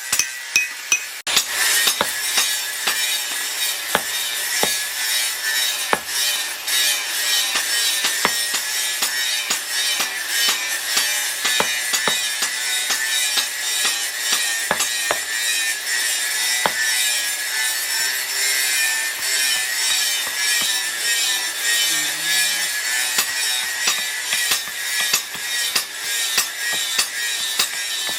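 Steady rasping scrape of steel being worked by hand abrasion, the kind made filing or sharpening a blade, with scattered small clicks; it starts abruptly about a second in after a couple of sharp knocks.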